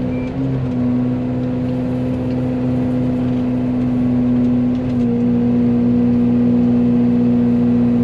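Excavator engine and hydraulically driven Fecon forestry mulcher head running steadily while mowing brush, with a strong constant hum. The excavator's travel alarm beeps once right at the start, and the hum steps slightly in pitch about five seconds in.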